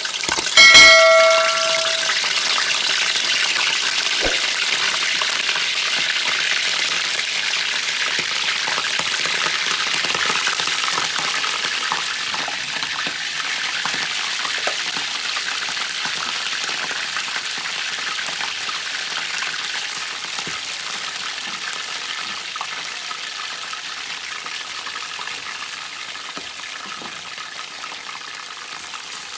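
Hot oil sizzling loudly in a karahi as food goes into it. There is a brief metallic ring at the start, and the sizzle slowly eases off over the following half minute.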